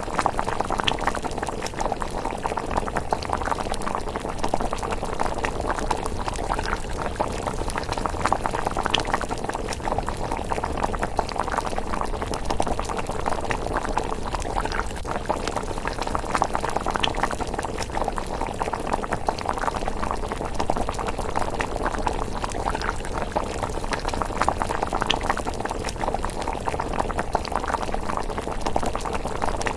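Pot of thick miso rice porridge bubbling at a steady simmer, a dense, even burble with scattered sharper pops.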